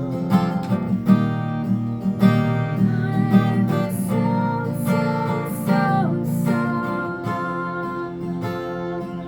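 Acoustic guitar strummed and picked, accompanying a song with sustained chords and a steady pulse of strokes, getting a little softer near the end.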